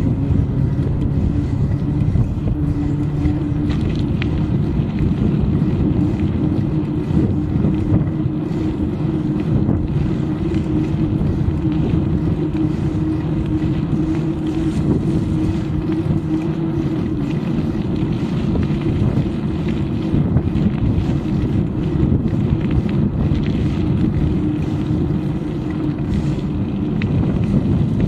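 Steady low rumble of a moving bike with wind on the microphone, and a constant low hum running through it.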